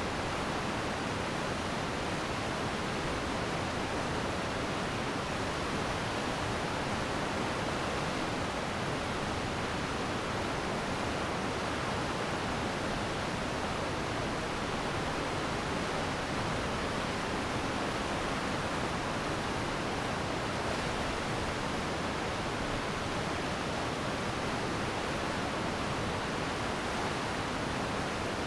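Glacier meltwater stream rushing steadily, a dense even flow of water.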